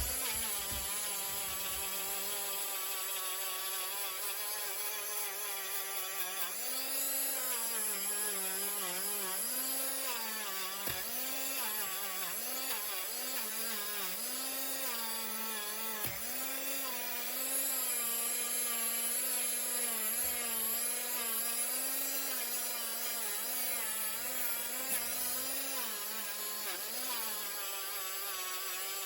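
Small Hyper Tough power tool with a polishing attachment running against a pocketknife blade: a steady motor whine whose pitch dips and recovers again and again as the wheel is pressed to the metal.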